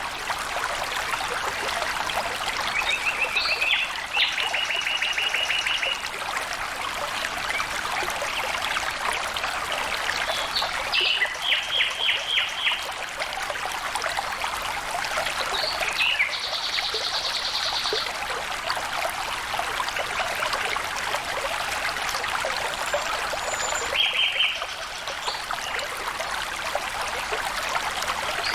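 Stream water trickling and flowing steadily. Over it come four short bursts of rapidly repeated high chirps.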